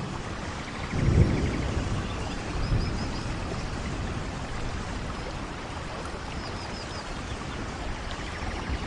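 Steady rainfall, with a low rumble of thunder swelling about a second in and a smaller one near three seconds.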